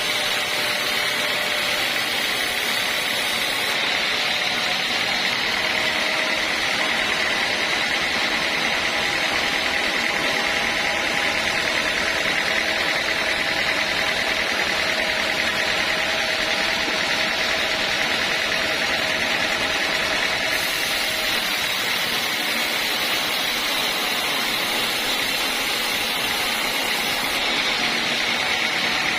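Band sawmill running steadily through the whole stretch, a constant high whine over a steady hiss with no breaks.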